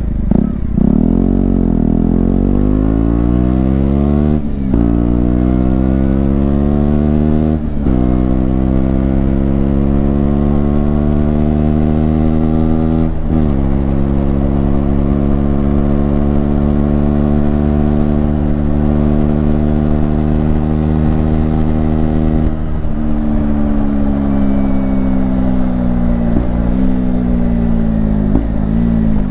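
KTM Duke 125's single-cylinder four-stroke engine accelerating hard through the gears. The revs climb and drop back at each upshift, about four and a half, eight and thirteen seconds in. It then holds high revs before rolling off, with the revs falling and short blips near the end as it downshifts.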